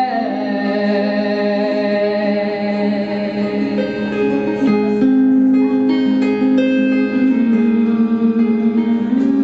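Acoustic guitar picking sustained single notes and chords, an instrumental passage near the close of a slow folk song played live.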